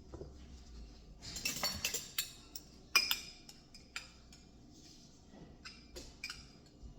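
Kitchen utensils and dishes clinking and clattering: a quick run of sharp clinks starting about a second in, the loudest near the middle, then a few scattered clinks.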